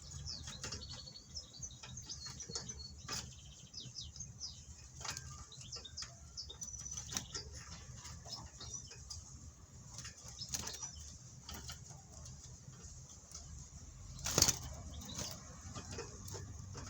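Small cage birds fluttering and flapping their wings, with scattered short, high chirps; one louder flurry of wingbeats about fourteen seconds in.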